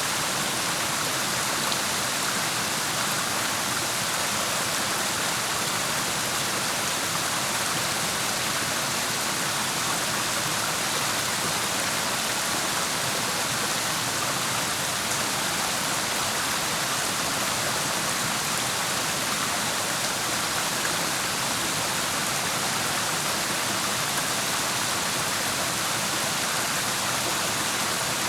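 Clear mountain stream water rushing steadily, an even, unbroken hiss with no separate splashes or other sounds standing out.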